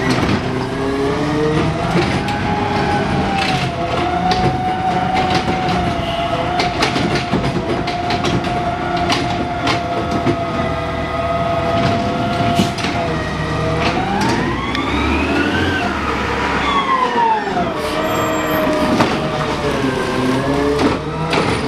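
Garbage truck's engine and hydraulic system working, with a steady whine that rises in pitch about two-thirds of the way through and falls back again, among scattered knocks and clanks.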